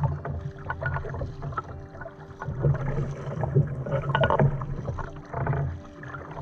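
Kayak paddling: the paddle blades dipping and splashing in regular strokes, with water sloshing along the hull.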